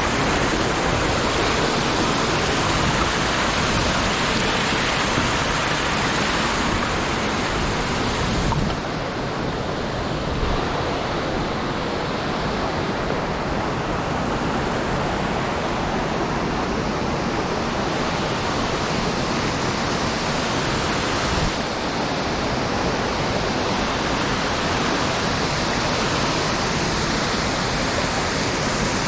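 Waterfall in a mountain stream gorge: a loud, steady rush of falling water, easing slightly about nine seconds in.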